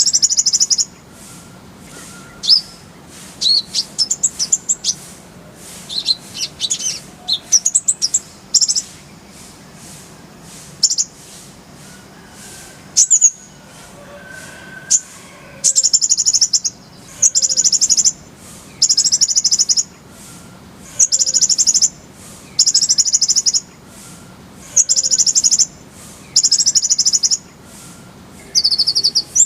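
Kolibri ninja sunbird singing: high, thin chirps and quick sweeping notes, then a run of buzzy, high-pitched trills of about a second each, repeated every second or two.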